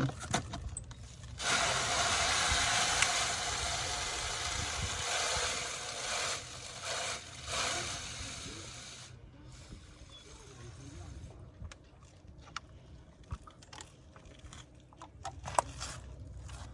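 A steady rushing hiss starts about a second and a half in and lasts several seconds, then gives way to a quieter background with scattered light clicks and knocks.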